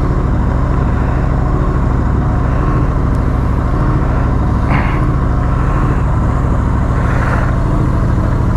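Royal Enfield Continental GT 650's parallel-twin engine idling steadily after a cold start, with two brief rustles about five and seven seconds in.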